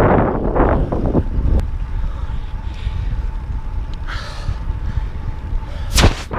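Wind buffeting a GoPro microphone while road cycling: gusty in the first second, then a steadier low rumble. A short sharp crack comes near the end.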